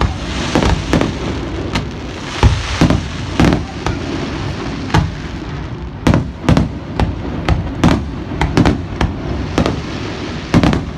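Fireworks display: aerial shells bursting in irregular, quick clusters of sharp bangs, over a continuous rumble and crackle.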